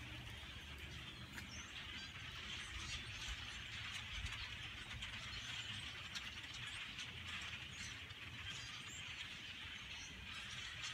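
A very large flock of migrating birds calling all at once: a dense, unbroken chatter of countless overlapping chirps.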